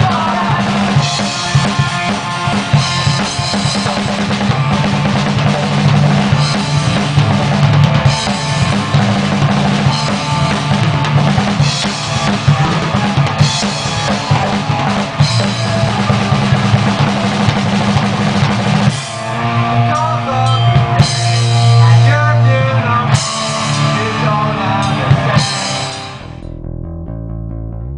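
Rock band playing live, led by a drum kit with bass drum, snare and cymbals over bass and guitar. About two seconds before the end the drums and the high end stop abruptly and the bass guitar carries on, quieter.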